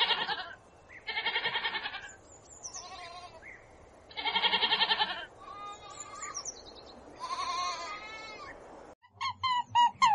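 Sheep bleating: about three loud, wavering bleats with high bird chirps between them. About nine seconds in it cuts suddenly to a run of short, rapid chirping calls.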